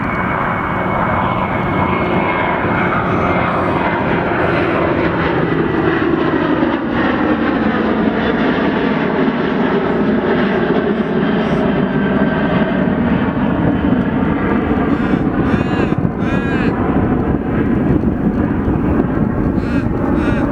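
Qantas Boeing 737 jet engines at departure thrust as the airliner passes, a loud steady jet noise whose tone sweeps slowly downward as the aircraft moves.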